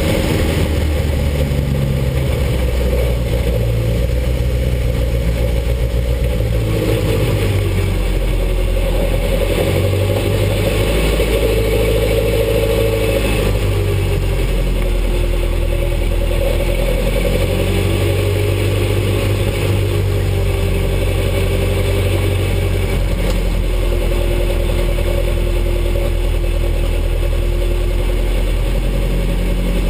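Ford Anglia race car's engine heard from inside the stripped cockpit, running at low revs, its pitch rising and falling gently as the car is driven slowly.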